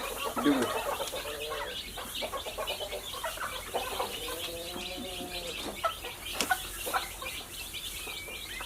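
Many birds chirping in quick short notes, with one longer drawn-out call about four seconds in.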